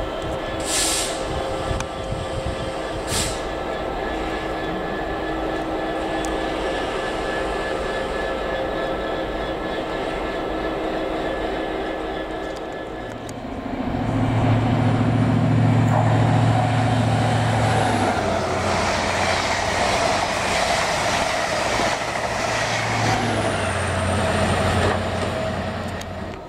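Class 66 diesel-electric freight locomotive, with its two-stroke V12 engine, running slowly past with a steady engine drone and two short high hisses early on. About halfway through a different train approaches and passes close at speed with a loud, low, steady drone that swells as it goes by.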